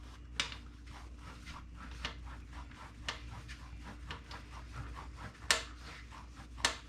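Microfiber towel rubbing along a motorcycle chain as it is wiped clean of chain-cleaner residue, with a run of light ticks several times a second and a few sharper clicks, one near the start and two near the end.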